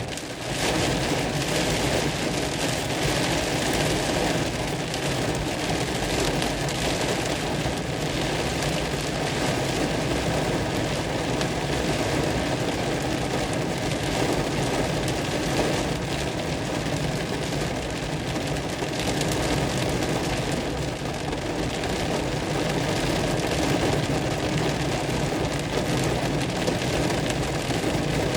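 Hard rain falling steadily.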